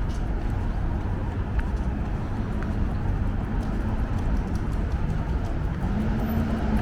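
City street traffic: a steady rumble with a nearby vehicle's engine humming, its pitch rising a little near the end.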